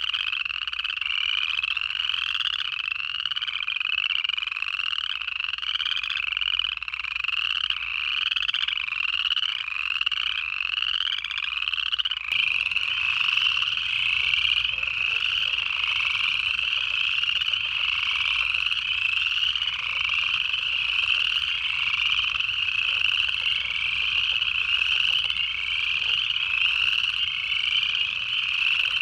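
Dense night chorus of upland chorus frogs, many overlapping short rising trills. About twelve seconds in, a fainter low clicking joins.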